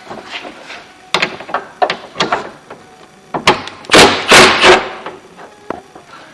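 Sharp knocks of tools and metal parts inside a truck door, then a loud clattering burst of about a second, starting about three and a half seconds in, as the door lock mechanism is worked loose.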